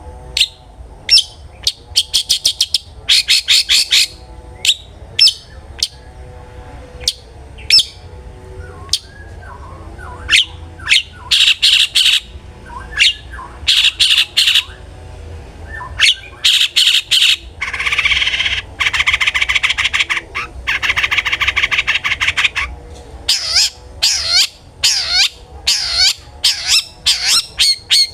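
Long-tailed shrike (cendet) in full song: sharp single calls and quick runs of repeated notes, with a long, dense harsh chattering stretch in the middle.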